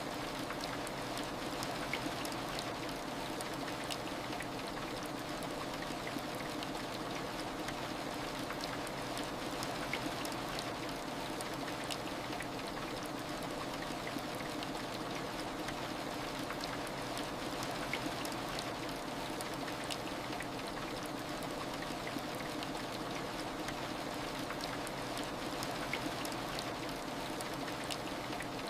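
Steady heavy rain: an even wash of falling rain with scattered single drop ticks.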